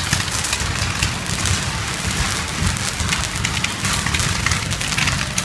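Fireworks crackling: a dense, unbroken stream of small pops and cracks over a low rumble.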